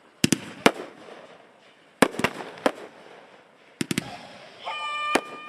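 Aerial fireworks exploding in quick clusters of sharp bangs, about a dozen in all. Near the end a steady pitched tone is held for about a second under the bangs.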